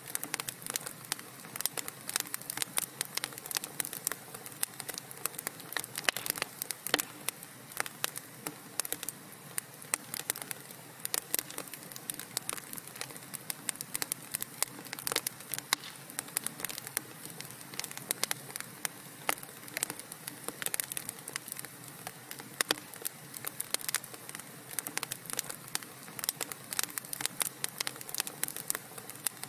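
Wood fire crackling in a fireplace: dense, irregular sharp pops and snaps over a soft steady hiss of burning.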